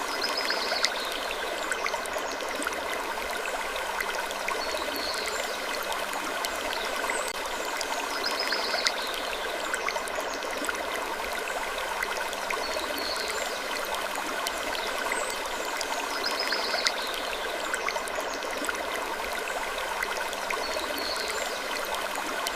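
Gentle wood creaking over a steady rushing, stream-like background noise. A brief higher creak returns about every eight seconds in a repeating loop.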